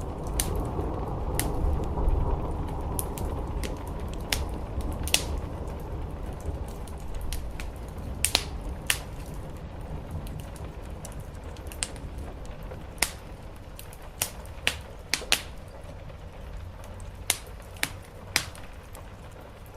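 Wood fire in a fireplace crackling, with irregular sharp pops, more of them in the second half, over a steady low rumble that fades through the first half.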